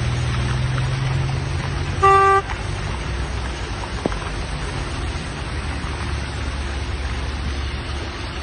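A car horn gives one short toot about two seconds in, over the steady low rumble of a car driving alongside.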